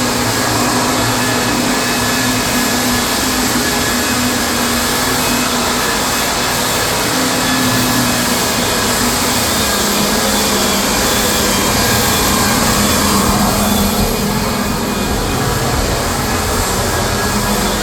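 Floor sanding machine running steadily on hardwood floor, a loud even grinding rush over a constant motor hum. This is the first, coarse-grit sanding pass that takes the old surface off.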